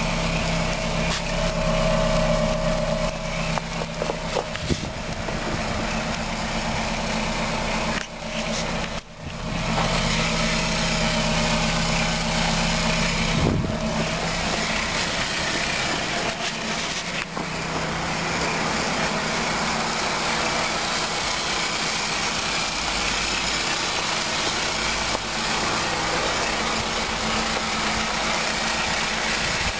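Car engine idling steadily, with a brief drop in level about eight seconds in.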